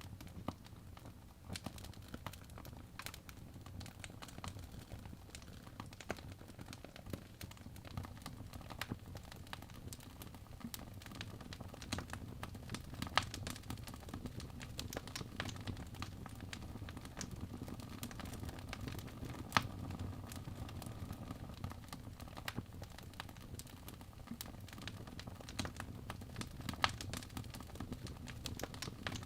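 Wood fire burning in a fireplace: a low, steady rumble of flames with frequent small crackles and pops, and a few sharper pops standing out now and then.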